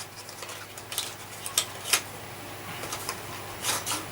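A few light clicks and taps of small parts being handled, scattered through otherwise quiet room tone, with a short cluster of them near the end.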